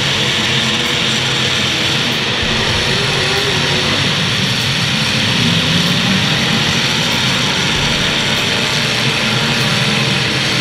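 Demolition derby cars' engines running and revving in a loud, steady din, one engine's pitch rising and falling briefly about four seconds in.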